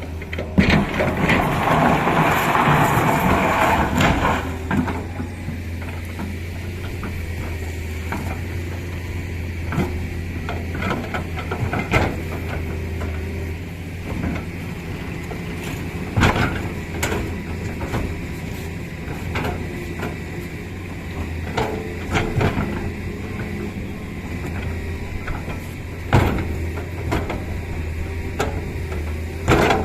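Heavy diesel machinery of an excavator and tipper truck running steadily with a low engine hum. A louder noisy rush lasts about four seconds near the start, and scattered sharp metallic clanks and knocks follow through the rest.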